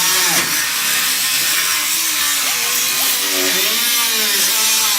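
A power tool running loud and steady, its pitch dipping and rising a few times.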